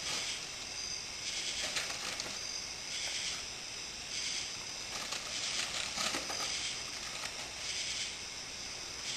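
Fire hissing and crackling, the hiss swelling and fading about every second or so, with a few sharp crackles.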